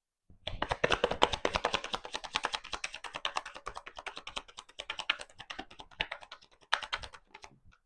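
A deck of tarot cards being shuffled: a dense run of rapid card clicks and flicks lasting about six seconds, then a short second flurry near the end.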